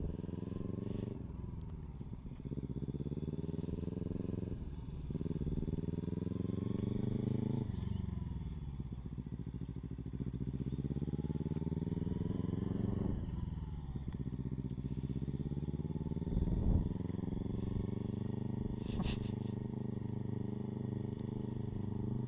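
Kawasaki Ninja 300 parallel-twin engine being ridden in first gear, its revs rising and falling several times as the throttle is opened and let go, with engine braking pulling the revs down each time it is released. A couple of short knocks come in the second half.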